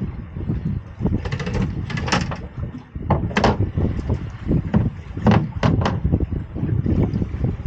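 A series of knocks and scrapes of handling on a small boat, about half a dozen sharp ones spread irregularly, over a steady low rumble.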